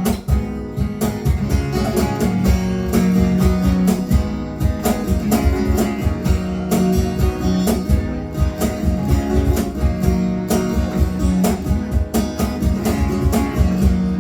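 Instrumental break: acoustic guitar playing over a steady cajon beat.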